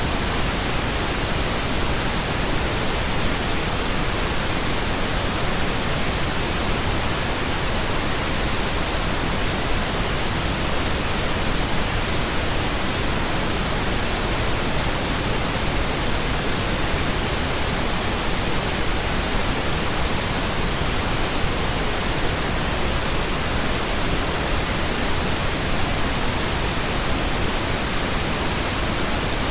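Pink noise: a steady, even hiss that spreads across all pitches and does not change.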